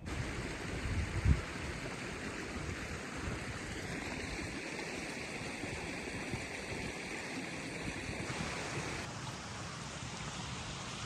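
Steady rushing noise of running water, with a short low thump about a second in.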